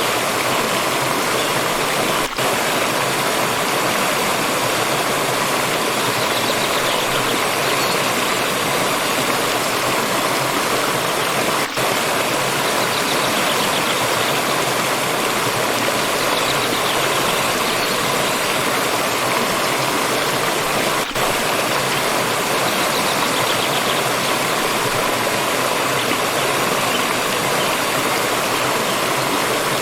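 Water stream rushing and splashing steadily over rocks. The sound drops out very briefly three times, about nine seconds apart.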